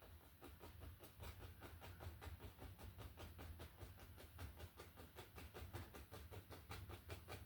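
Paintbrush tapping rapidly on canvas, about six light taps a second, dabbing in foliage in oil paint, over a faint low hum.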